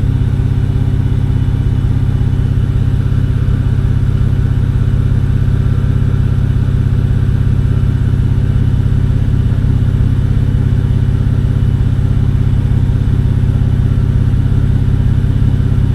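BMW N52 straight-six engine idling with a steady, even hum: it runs smoothly, its misfire cleared.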